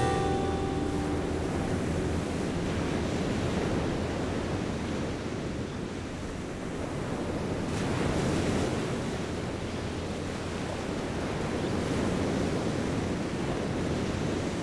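Ocean surf washing against a rocky shoreline, a steady rush that swells louder twice, about eight and twelve seconds in. The last notes of a guitar music track fade out in the first second.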